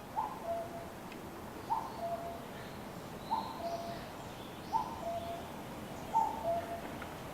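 A bird repeating a two-note call, a higher note dropping to a lower one, five times at even intervals of about a second and a half, with faint high chirps of another small bird in the middle.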